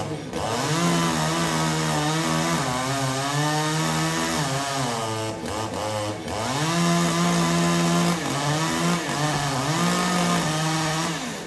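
Two-stroke chainsaw running at high revs, cutting wood on a tree, its engine pitch dipping and recovering several times as the cut loads it, most deeply about halfway through.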